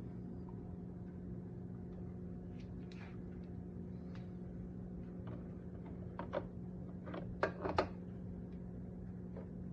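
A steady low hum throughout, with a few light knocks and clacks of handled hard objects about six to eight seconds in, the loudest a quick cluster of three near the end.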